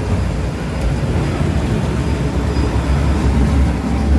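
Hitech-SH10T industrial waste shredder running under load as it cuts textile scraps: a loud, steady low rumble.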